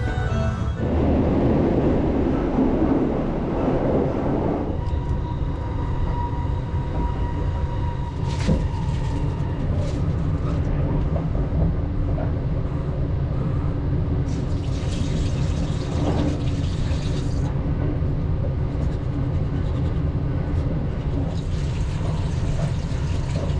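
Steady low rumble of the Sunrise Izumo sleeper train (a 285 series electric train) running on the rails, heard from inside the car. A washbasin tap runs twice, once around the middle and again near the end.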